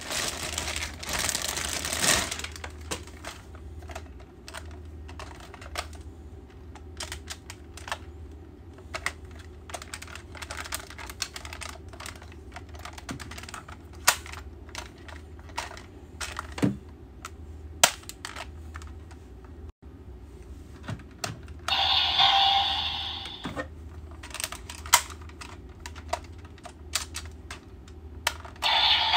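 Hard plastic toy being handled: scattered clicks and taps, with a few short bursts of rustling at the start, about two-thirds of the way through and near the end.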